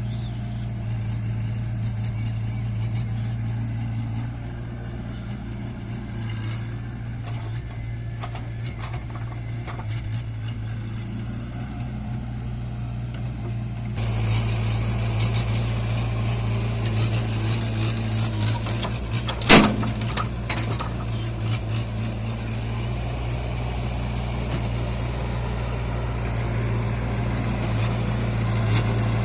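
Tractor diesel engine running steadily at a low, even note. The sound steps up suddenly about halfway through, and a single sharp knock stands out about two-thirds of the way in.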